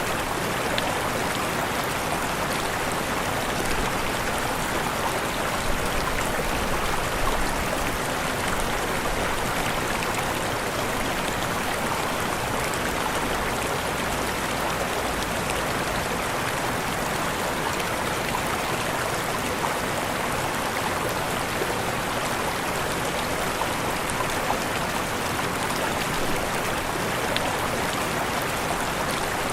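Waterfall: steady rushing of falling water, even and unbroken, with faint splashing droplets.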